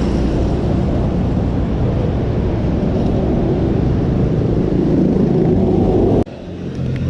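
Steady rumble of road traffic heard while riding a bicycle along a city road, breaking off abruptly about six seconds in.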